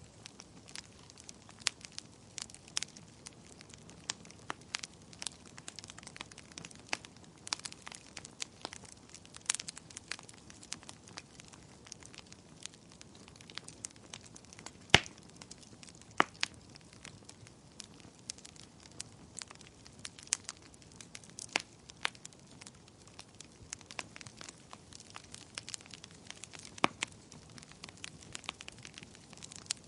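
Wood fire crackling in a fireplace: frequent sharp pops and snaps over a soft hiss, with one louder pop about halfway through.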